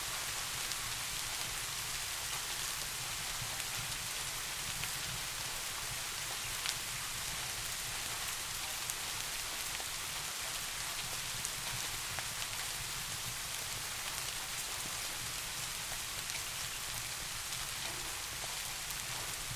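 Steady rain falling with an even hiss, a low steady rumble underneath, and a few scattered sharp ticks of heavier drops.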